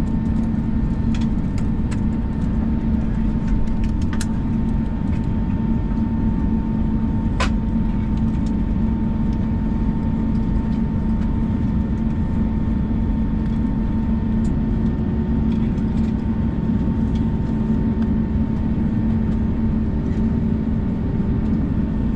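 Airbus A321 cabin noise while taxiing: the jet engines and airflow make a steady low drone with an even hum tone through it. A few light clicks and knocks sound over it, the sharpest about seven seconds in.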